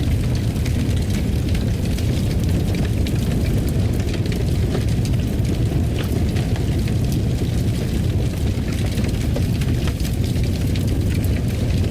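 Wood fire in a fireplace crackling: a steady low rumble with scattered sharp crackles and pops throughout.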